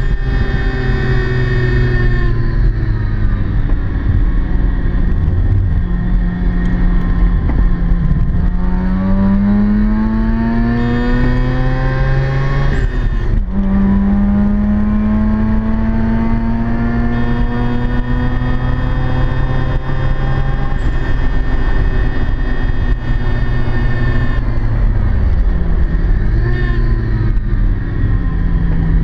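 Mazda RX-7 FC3S's two-rotor 13B rotary engine, heard from inside the cabin, pulling hard through the revs on a track lap. About halfway through the pitch drops suddenly at an upshift and climbs again, and near the end the revs fall away as the car slows.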